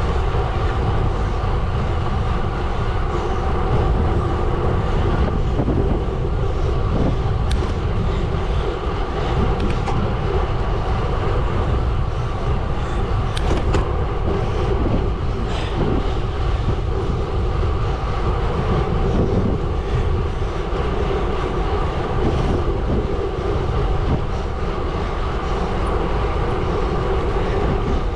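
Gravel bike tyres rolling steadily over a gravel road, a continuous rumble with a few sharp ticks, perhaps from stones.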